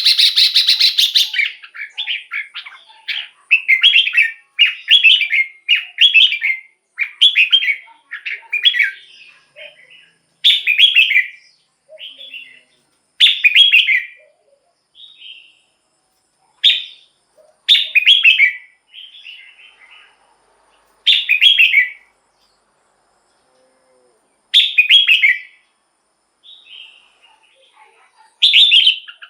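Red-whiskered bulbul singing short, bright whistled phrases. They come in a quick run at first, then one at a time with pauses between them.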